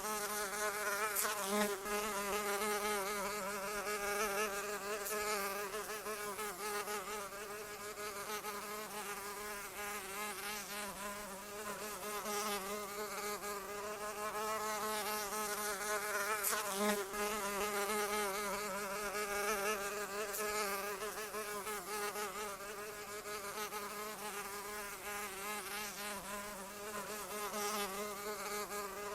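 A flying insect's wings buzzing: a steady, unbroken hum with many overtones, its pitch wavering slightly.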